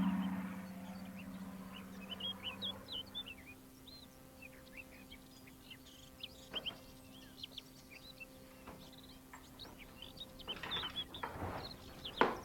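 Birds chirping, many short high calls scattered throughout, over a faint steady hum; a low tone fades out in the first second.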